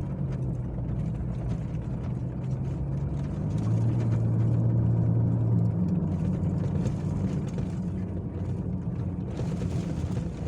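A motor vehicle's engine running steadily with a low hum, louder for a couple of seconds about four seconds in.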